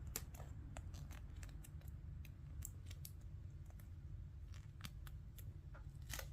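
Small irregular clicks and crinkles of hands handling a Lego sticker sheet and plastic pieces, with a low steady hum underneath.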